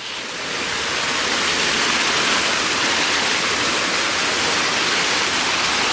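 Small waterfall splashing out of rocks into a river, a steady rush of falling water.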